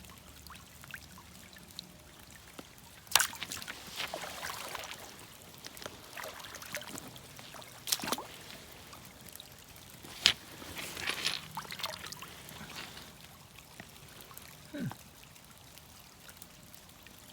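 Creek water trickling faintly, broken by three sharp knocks a few seconds apart, each followed by a brief rustle.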